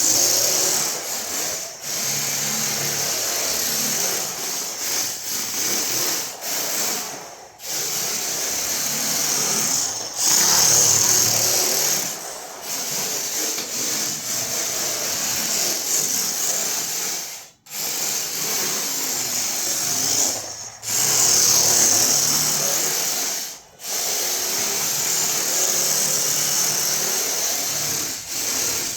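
A small electric motor whirring in long stretches, cutting out briefly several times.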